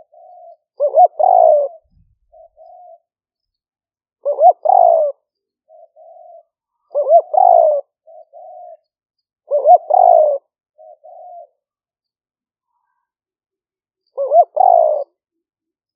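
Spotted dove cooing repeatedly: five loud phrases of two quick notes and a longer coo, a few seconds apart, with fainter short coos between them. This is a caged decoy bird's calling, recorded for luring wild doves.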